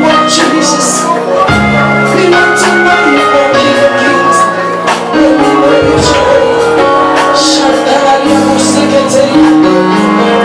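Live church worship music: singing over a band, with held instrumental notes and cymbal strokes.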